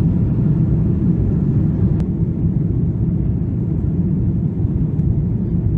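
Airbus A330-300 passenger cabin noise: the steady, loud rumble of the engines and airflow, with a faint tick about two seconds in.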